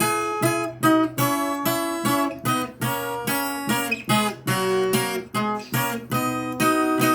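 Viola caipira, a Brazilian ten-string folk guitar, strummed and plucked in a steady rhythm of ringing chords in B.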